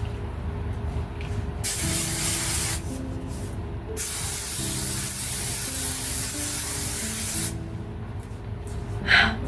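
Aussie Insta-Freeze aerosol hairspray sprayed in two hissing bursts: a short one of about a second, then a longer one of about three and a half seconds.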